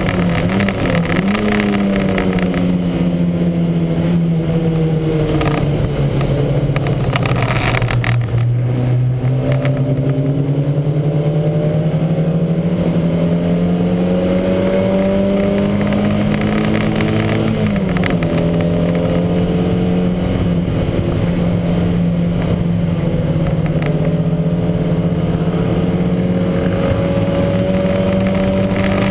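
Lancia Montecarlo race car's engine running hard with a heavy misfire. Its note falls over several seconds, climbs steadily, drops sharply with a gear change about 18 seconds in, then holds steady.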